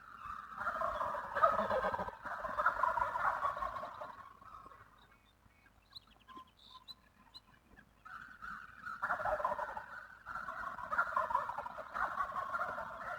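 Wild turkey gobbling in two long bouts, with a quieter gap in between.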